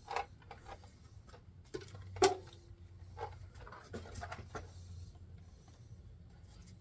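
Hand tools and sockets clinking and knocking against metal during engine teardown work, with one sharp metal clink about two seconds in that rings briefly.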